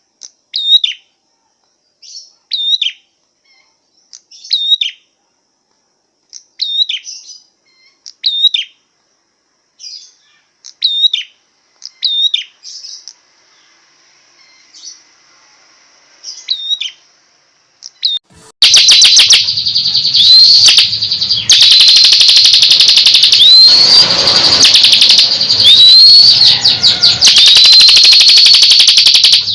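Songbird calls: short separate chirps with a quick falling-then-hooked note, repeated about every one to two seconds. About two-thirds of the way through, a loud, continuous, rapid chattering song with rising whistled notes takes over.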